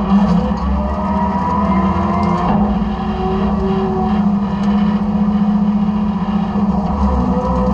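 Side-loader garbage truck running, heard from inside the hopper: a steady low engine drone with a wavering hydraulic whine above it.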